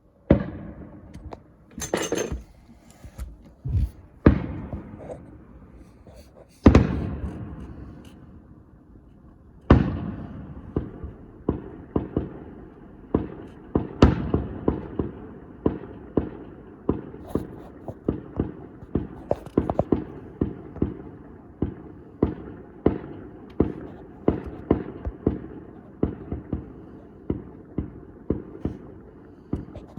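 Fireworks going off: a few loud, separate bangs with echoing tails in the first ten seconds, then a steady, rapid run of bangs at about one or two a second for the rest of the time.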